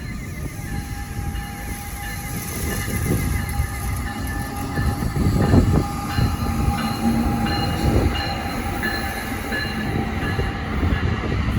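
Passenger train running past on the tracks: a steady rumble with a few heavier thumps.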